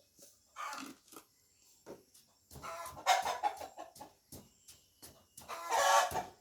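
Chicken squawking and clucking. There are two loud bursts, one about three seconds in and another near the end, with scattered short clicks between them.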